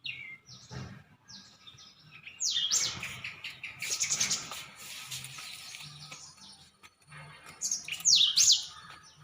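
Small birds chirping in quick, falling high-pitched calls, in one burst about two and a half seconds in and another about eight seconds in.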